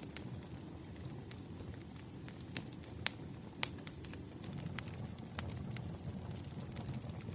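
Wood fire burning: irregular sharp crackles and pops of firewood over a low steady rumble, the loudest pops about three seconds in.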